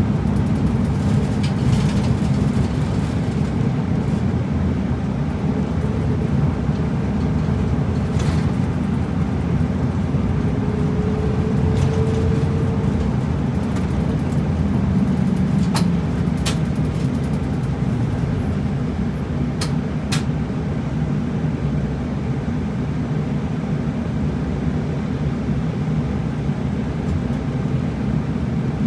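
Route bus driving along, heard from inside the cabin: a steady low engine and road rumble, with a few short sharp clicks about halfway through.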